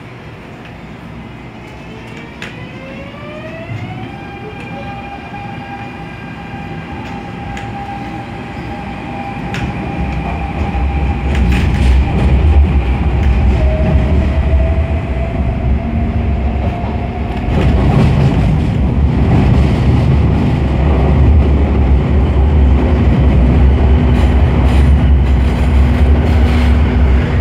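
MTR A-Train (Adtranz-CAF) electric multiple unit accelerating. The traction motors' whine climbs in pitch over the first few seconds, then holds steady, while the running noise and a low rumble grow much louder from about ten seconds in.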